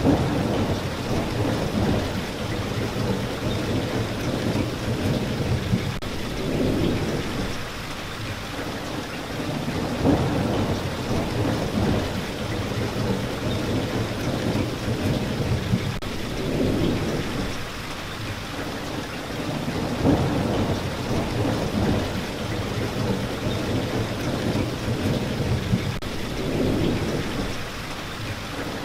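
Steady rain with low rumbles of thunder swelling and fading every few seconds.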